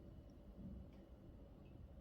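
Near silence: room tone with a faint steady low hum and a couple of tiny faint ticks.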